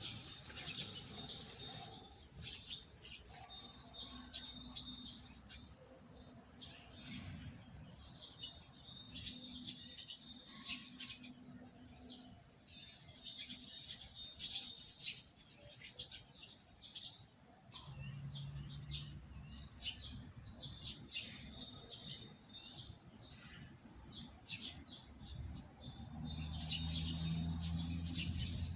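Songbirds chirping and singing, with rapid series of short high notes repeated over and over. A low steady hum comes in near the end.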